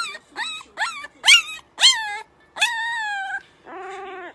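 A dog crying out in a quick run of about five short, high, sharply rising yips, then a longer whine that falls in pitch, and a lower, shorter cry near the end.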